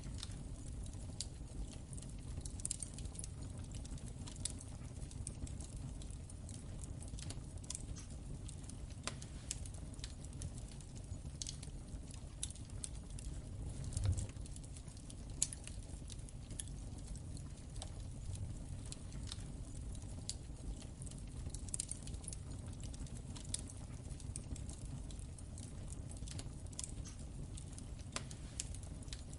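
Wood fire crackling in a fireplace: a steady low rumble of flames with irregular sharp snaps and pops, two louder pops about halfway through.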